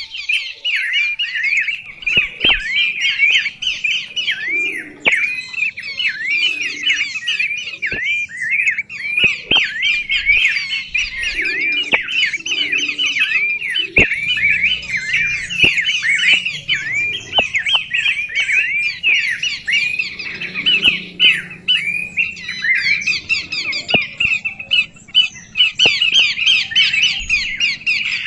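A flock of small birds calling continuously: a dense run of short, high, curling chirps, several a second and overlapping, with a few sharp clicks among them.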